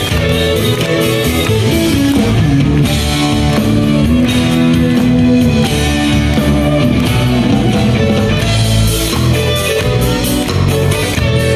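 Instrumental break in a rock song: guitars and a drum kit playing between sung verses, with no vocals.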